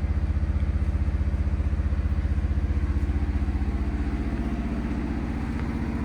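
An engine running steadily with a low, fast, even pulse that stays constant throughout.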